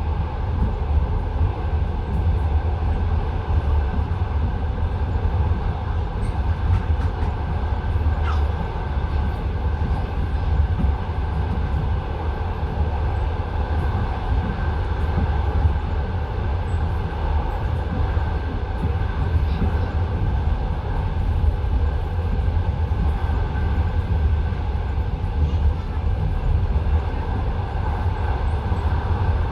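Passenger train running along the line, heard from inside the carriage: a steady low rumble with the clatter of the wheels on the rails.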